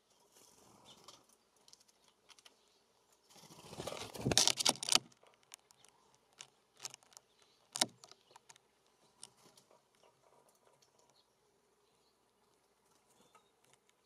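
Birds at a feeder station: a loud flurry of wing flapping and clatter about four seconds in, then scattered sharp taps and clicks of a California scrub-jay's beak and feet on wire suet cages and metal feeders.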